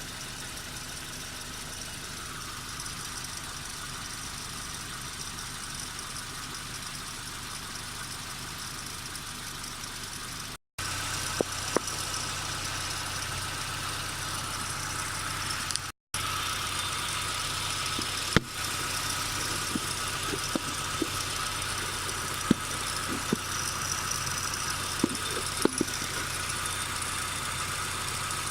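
Nissan Micra K12's CR14DE 1.4-litre four-cylinder engine idling, with irregular sharp ticks and rattles over the steady running, more of them in the second half. The owner is unsure whether the noise comes from the timing chain or the drive belt tensioner.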